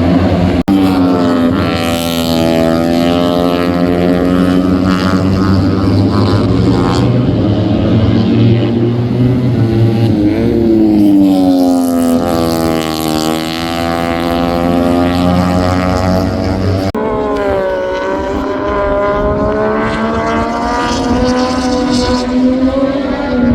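MotoGP racing motorcycle engines running at high revs, the pitch falling and rising over a few seconds at a time as the bikes brake and accelerate. The sound changes abruptly twice, about a second in and again about two-thirds of the way through.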